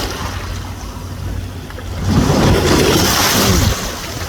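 A passing motorboat's engine hum over sloshing sea water and wind, growing louder for a couple of seconds from about two seconds in.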